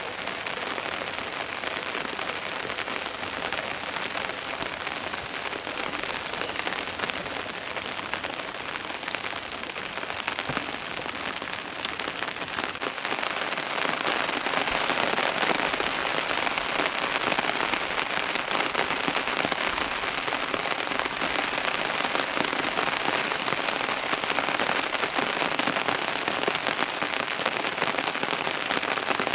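Steady rain falling and pattering on a surface, a dense even hiss with scattered drop ticks, growing somewhat heavier about halfway through.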